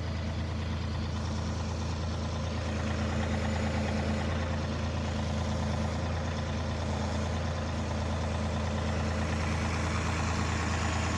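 John Deere 2038R compact tractor's diesel engine running steadily, a low, even hum.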